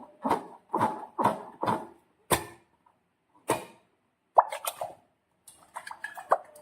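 Slime plopping and squelching: about ten separate short sticky squishes with silent gaps between them, ending in a quick run of smaller squishes.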